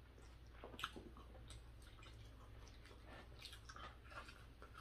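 Faint chewing and wet mouth clicks of people eating, with a few soft smacks scattered through.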